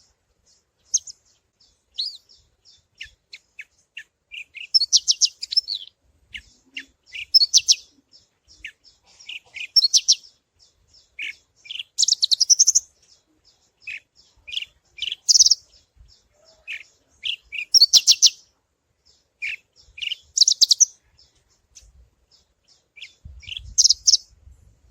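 Bush lark (branjangan, Mirafra javanica parva) singing: a continuous run of quick chirps and high trills, broken every two to three seconds by louder, very rapid trilled phrases. This is its wild-type song, of the kind used as a lure recording to train captive larks.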